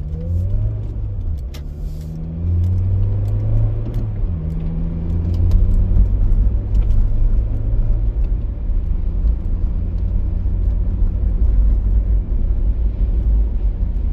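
Car engine and tyre rumble from inside the moving car, the engine note rising over the first few seconds as it accelerates, then settling to a steady cruise.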